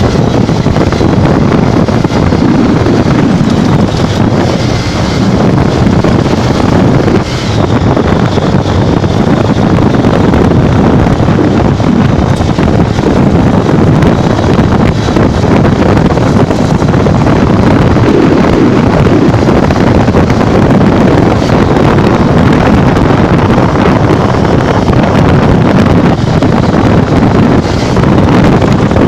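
Steady, loud wind rush over the microphone of a Honda Bros 150 motorcycle ridden at speed, with the bike's running mixed in underneath.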